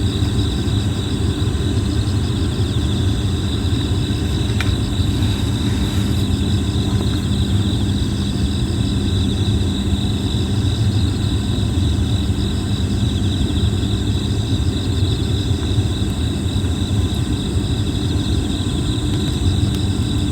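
Plum-wood campfire burning with an occasional faint crackle, over a steady low rumble and a steady chorus of chirping insects.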